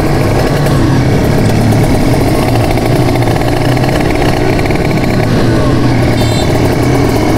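Motorcycle engine running steadily, holding a fairly even speed without clear revving up or down.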